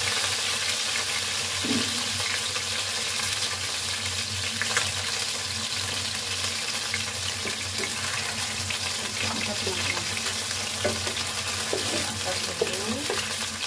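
Diced chicken breast frying in hot oil in a wok: a steady sizzle with occasional spattering pops. Near the end a wooden spatula stirs and lifts the pieces.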